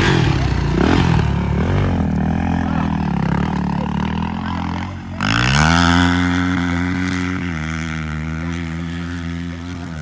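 450cc dirt bike engines revving unevenly at the start line, then about five seconds in a hard launch: the engine pitch climbs steeply, holds high, and slowly fades as the bike pulls away down the dirt strip.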